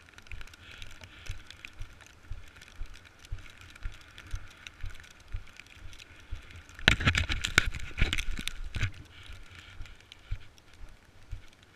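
Snowboard sliding over snow, with wind buffeting the microphone in low thumps. A louder stretch of scraping comes from about seven to nine seconds in.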